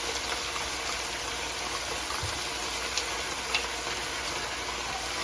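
Sautéed onions and peppers with hot sauce and ketchup sizzling in a hot pan: a steady hiss, with a couple of faint ticks a few seconds in.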